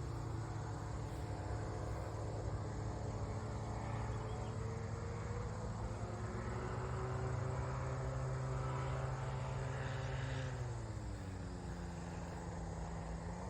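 Small aircraft engine droning in flight, its pitch rising slightly about five seconds in and dropping about ten seconds in.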